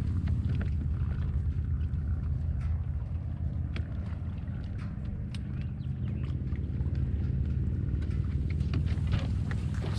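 Longtail mud motor engine on a jon boat running steadily at low speed, pushing an 8-inch Hurricane prop, with scattered light clicks over it.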